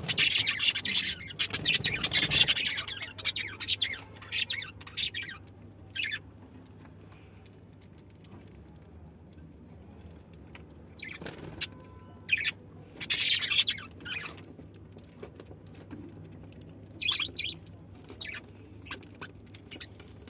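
Budgerigars chirping and chattering in bursts of short, high-pitched calls. The chirps are densest at the start and again about halfway through, with quieter gaps between.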